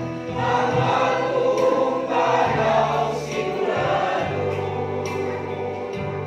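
A choir singing a gospel song over a steady bass accompaniment with a regular beat.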